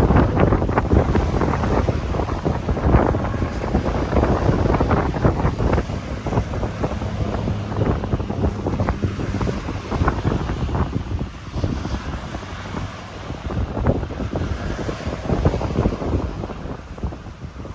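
Strong, gusty wind buffeting the microphone with a rumble, over the noise of ocean waves breaking.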